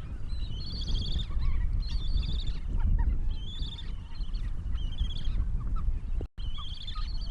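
Many birds calling at once: short, repeated high calls overlapping one another over a low rumble, broken by a brief cut to silence about six seconds in.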